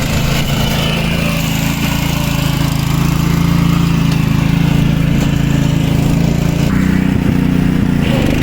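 Small engine of a mini tractor running steadily under way, with a slight change in its note near the end.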